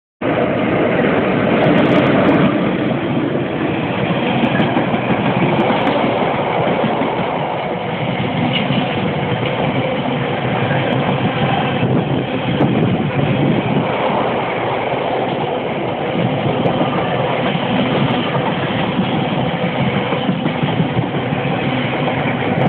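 Freightliner Class 90 electric locomotive passing at speed, loudest about two seconds in. A long train of container wagons follows, rushing past with a steady, continuous noise of wheels on rail.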